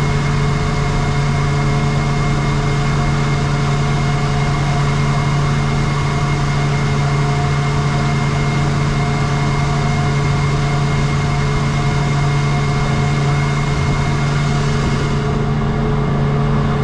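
Engine of a Hydro Attack shark-shaped watercraft running steadily at a constant pitch, with a hiss over it. About fifteen seconds in, the hiss thins out.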